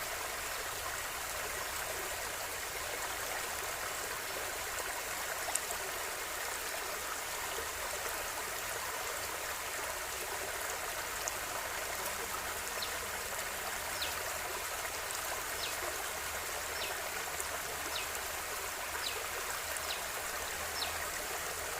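River water flowing steadily over rocks, an even rushing with gurgles, and a few brief high ticks in the second half.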